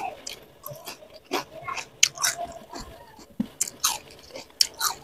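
A person biting and chewing crunchy food close to the microphone, with irregular crisp crunches: mouthfuls of rice with raw vegetables such as leunca, petai and jengkol.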